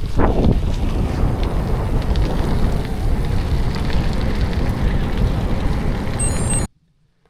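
Wind buffeting the microphone over the rumble and crunch of a gravel bike's tyres rolling along a gravel road. It cuts off abruptly near the end, and then there is near silence.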